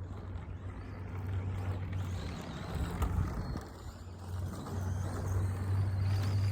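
Team Associated SC10 radio-control short course truck driving on loose dirt, a steady motor hum with tyre noise, getting louder near the end.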